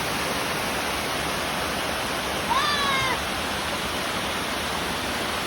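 Steady rush of a waterfall. About two and a half seconds in, a single short, high pitched call rises and then levels off over it.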